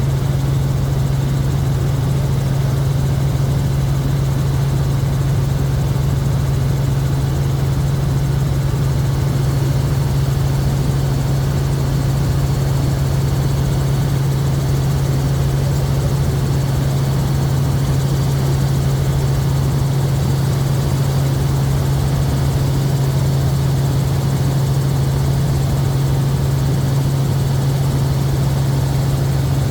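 Helicopter in flight, its engine and rotor making a loud, steady drone with a strong low hum that does not change.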